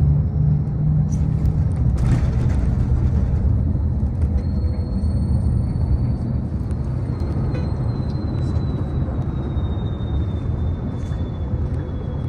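Steady low rumble of a moving sightseeing vehicle heard from on board, with a faint thin whine slowly falling in pitch from about four seconds in.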